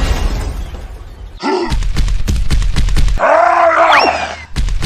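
Cartoon-style smashing sound effects: a crash with a low rumble, then a burst of rapid clattering knocks, followed by a drawn-out groaning cry rising and falling in pitch near the end.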